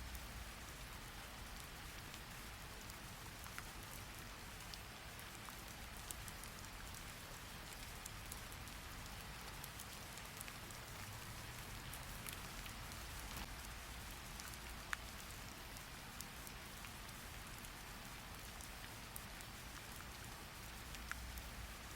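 Steady rain falling, with scattered drops ticking. A few sharper clicks stand out, the loudest about two-thirds of the way in.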